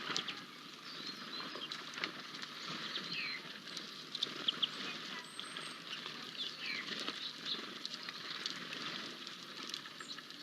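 Birds at a feeder: many short, high chirps and calls, mixed with quick wing flutters.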